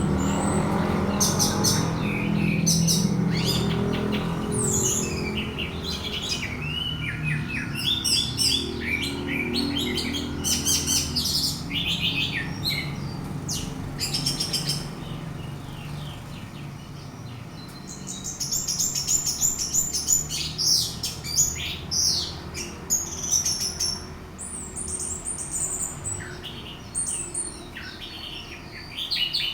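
Orange-headed thrush singing a long, varied run of whistles and chirps, a song used as a lure to provoke another thrush into singing. A steady low hum runs beneath it and fades out about halfway through.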